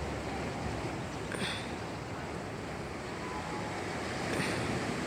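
Water rushing past a moving boat with wind buffeting the microphone and a steady low rumble underneath. There are two short, louder surges, about a second in and near the end.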